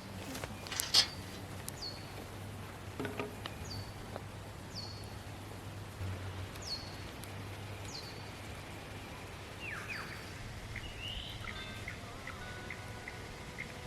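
Birds calling outdoors, with short high whistles that sweep downward and repeat every second or two. About ten seconds in, a lower call and a run of quick chirps take over. A loud sharp pop about a second in fits the crackle of a campfire.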